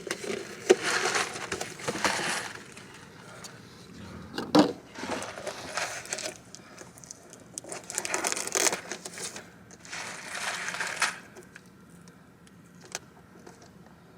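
Food packaging rustling and crinkling in several separate bursts, with a few light knocks and clicks, as a box of shells and cheese is opened and its cheese sauce and bacon packets are handled.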